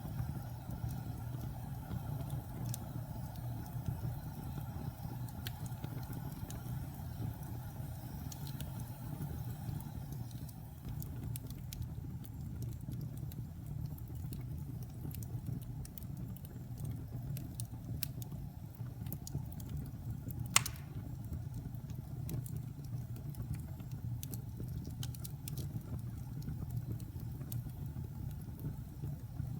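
Wood fire burning in a fireplace: a steady low rumble of flames with scattered small crackles, and one sharp pop about twenty seconds in.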